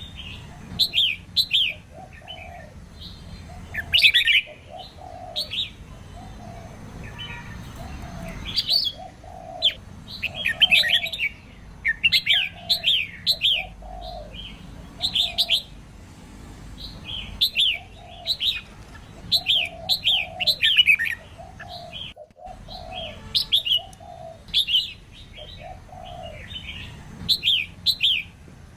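Red-whiskered bulbul song, presented as a female's song for rousing male birds to sing: short phrases of quick, bright descending chirps with a lower note, repeating about once a second with brief pauses.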